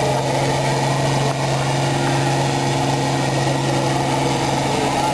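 Tractor engine running at a steady speed, with a constant low hum.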